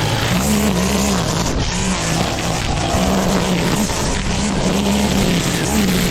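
Petrol mower engine running under heavy load, its speed dipping and recovering every second or so as it cuts thick, wet grass, with the rush of cutting and wind.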